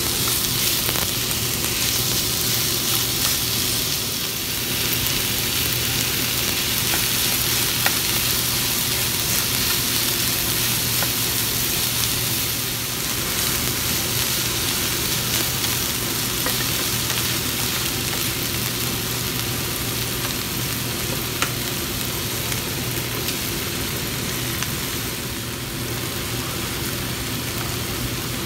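Minced chicken, onion and green onion sizzling in a nonstick frying pan as they are stir-fried with a wooden spatula, with a few light spatula knocks. Later an egg fries in the pan alongside.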